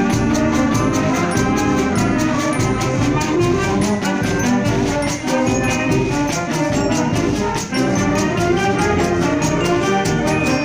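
Symphonic wind band playing, with trumpets and trombones carrying the melody over a steady percussion beat.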